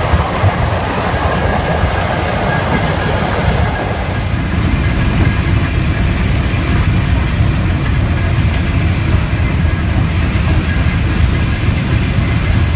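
Mount Washington Cog Railway rack train running, a steady low rumble with noisier mid-range rattle that eases about four seconds in, leaving mostly the rumble.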